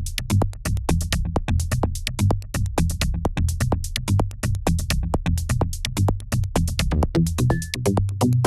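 Live techno from a Korg Volca Drum, Volca Bass and Volca FM: rapid ticking drum-machine percussion over a pulsing synth bass line. Pitched synth notes come in near the end.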